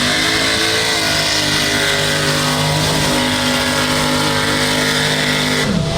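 A mud truck's engine running hard at high, steady revs, with a hiss of noise over it. Near the end the sound changes abruptly and the engine pitch drops.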